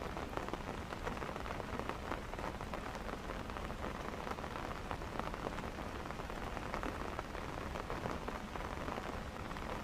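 Steady heavy rain, with many individual drops ticking close to the microphone.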